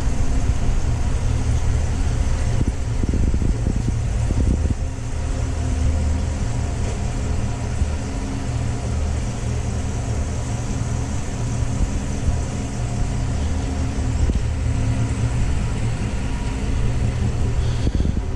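Chevrolet Tahoe idling: a steady, even low engine hum with a faint whir over it, no revving.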